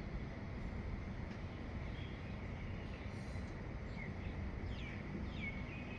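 Dawn birdsong: a few short chirps, then several quick descending calls in the second half, over a steady low rumble and a thin steady high drone.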